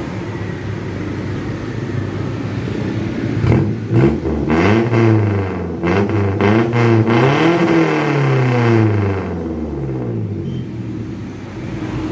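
Suzuki Futura injection four-cylinder engine idling through an aftermarket racing exhaust, then revved several times in quick blips from about three seconds in, each rising and falling in pitch, before settling back to idle near the end.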